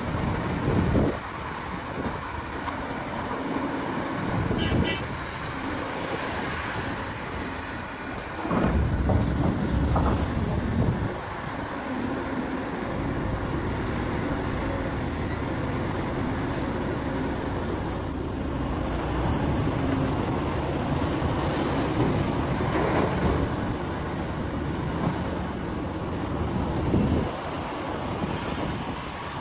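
Large Caterpillar mining excavator at work: a steady diesel engine drone with a hum, broken by several heavy low rumbles, the longest about nine to eleven seconds in.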